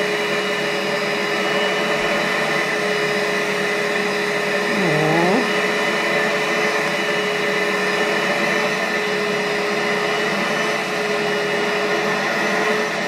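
Portable rug cleaner's motor running steadily, a constant whine over a rushing hiss. A short rising sound comes about five seconds in.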